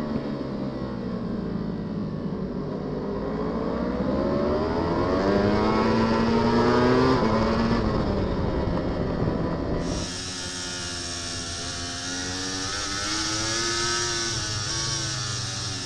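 Superbike racing engine heard from an onboard camera, its pitch falling as the bike slows and then climbing through the gears with short steps at the shifts. About two-thirds of the way through the sound changes abruptly to another bike's onboard engine note, again rising and then falling.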